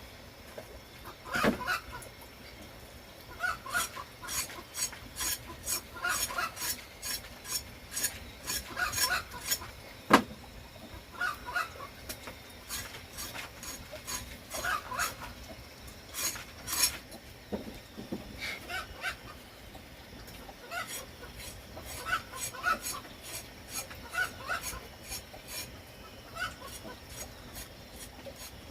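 Chickens clucking in short, repeated calls over a run of scraping and rustling clicks, with one sharp knock about a third of the way through.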